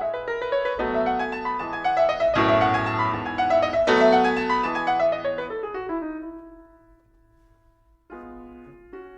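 Background piano music: chords and melody notes that fade to one held note about seven seconds in, then a short gap before softer notes start again near the end.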